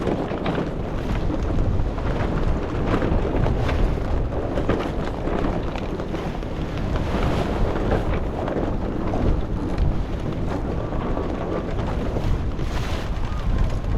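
Wind buffeting the microphone aboard a small sailboat in rough, rolling seas, with the rush of waves; it comes in steady gusts.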